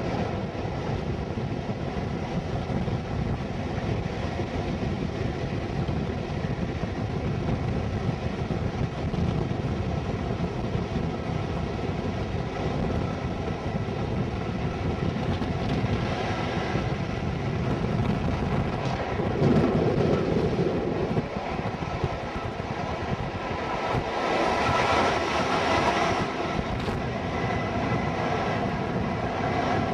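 Loco-hauled train running at speed, heard from an open window just behind the Class 57 diesel locomotive: the engine's steady note under wheel-on-rail noise and wind buffeting the microphone. The noise swells twice for a few seconds in the second half.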